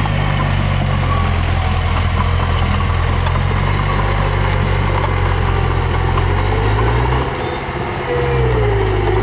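Heavy diesel engine of earthmoving machinery running steadily. About seven seconds in it drops in pitch and level briefly, then picks back up, and a faint falling squeal comes near the end.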